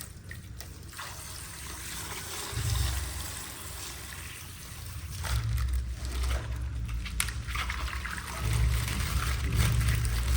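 Coloured water trickling and pouring out of a pierced plastic ice-pack bag.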